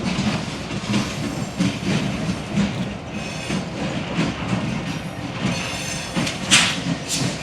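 Train rolling past, its wheels clicking over the rail joints in a quick, uneven rhythm, with two short high-pitched bursts near the end.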